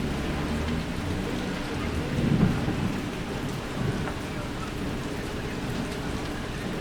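Rain falling steadily, with a low rumble underneath that swells briefly about two seconds in.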